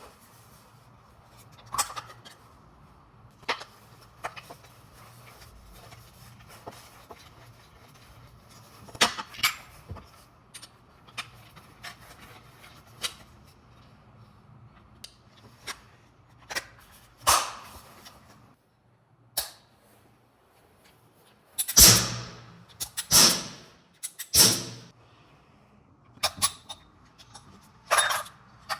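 Chiappa Rhino 30DS CO2 airsoft revolver being handled and loaded: scattered metallic clicks and knocks with a faint steady hum beneath, and a louder run of sharp clacks about three-quarters of the way through.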